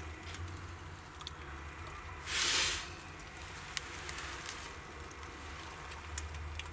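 Wood fire burning in a brick fireplace's firebox, crackling faintly and irregularly, with one brief louder hiss about two seconds in.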